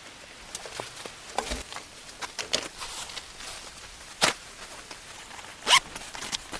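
Irregular rustles, clicks and light knocks of gear being handled at a campsite, with two louder short scrapes about four and six seconds in.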